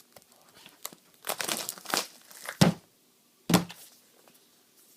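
The end flap of a cardboard SSD retail box being pried and torn open: a tearing, crinkling rustle, then two dull knocks against the box.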